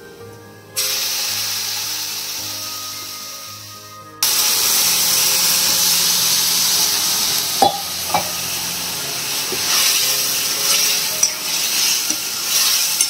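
Hot tempering oil in an iron wok hissing and sizzling as vegetable curry is poured in. A sudden hiss comes about a second in and fades, then a louder one about four seconds in keeps sizzling, with a couple of sharp clicks.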